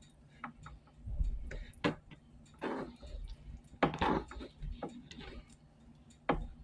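A person eating close to the microphone: irregular wet mouth clicks and smacks of chewing.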